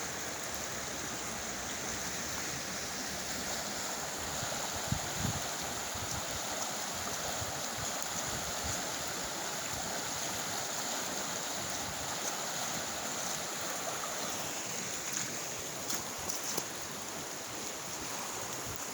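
Creek water rushing and splashing steadily, with a few faint knocks about five seconds in and again later.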